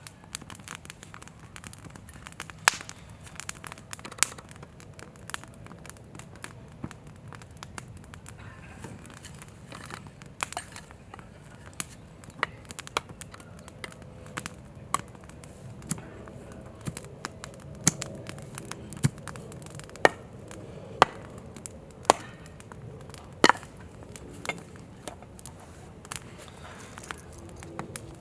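Wood campfire crackling: irregular sharp pops and snaps, some much louder than others.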